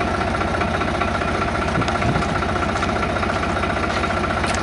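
Fiat DT 45-66 tractor's three-cylinder Iveco diesel engine idling steadily with an even, rapid pulse.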